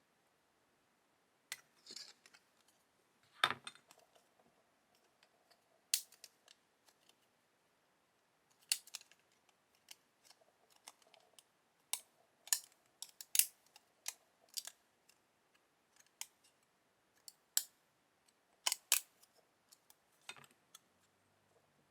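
Small hobby cutting tool snipping styrene plastic: a string of sharp, irregular snips and clicks, with pauses of up to a couple of seconds between them.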